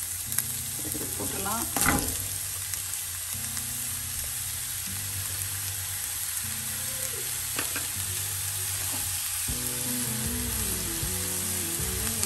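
Enoki mushrooms sizzling in butter in a nonstick frying pan, a steady frying hiss. Soft background music plays underneath and becomes more melodic near the end.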